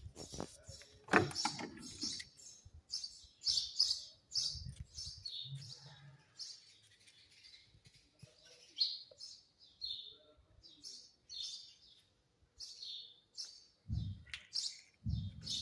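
Small birds chirping repeatedly in quick, short high-pitched calls, with a few dull low thumps near the start and near the end.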